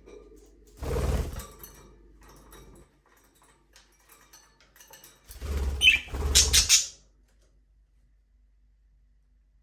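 Budgerigars in a small aviary: a short scuffle with a dull thump about a second in, then a louder burst of rustling and sharp, high chirps around six seconds.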